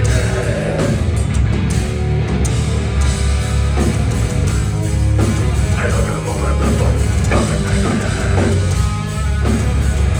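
Heavy metal music with distorted guitars, bass and pounding drums, played loud and continuously.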